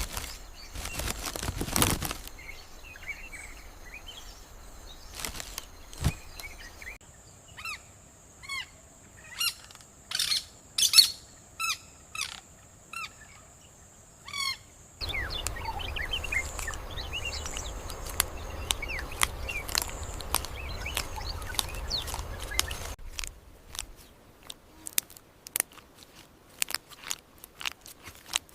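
Outdoor nature ambience of birds chirping and calling in short repeated phrases, over a thin steady high tone and scattered sharp clicks. The background changes abruptly several times.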